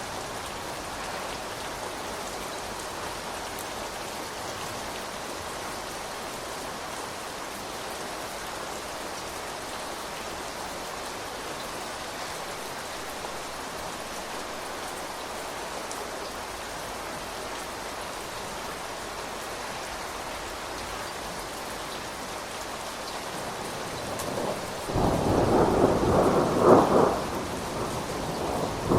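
Steady rain falling, with a thunderclap breaking in near the end: loud for a couple of seconds, then rumbling off into the rain.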